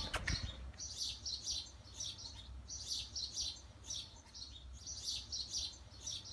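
A small bird chirping: quick clusters of short high notes, repeated about once or twice a second.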